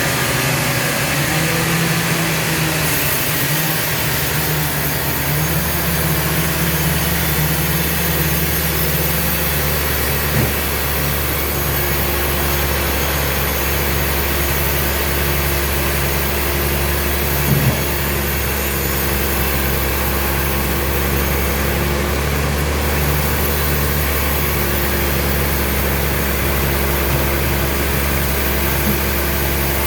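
Sawmill machinery running steadily with a low engine-like hum and a faint regular rhythm, broken by two brief knocks, about ten and eighteen seconds in.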